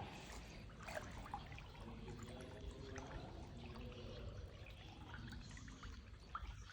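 Faint water trickling and dripping, with scattered small drips and splashes.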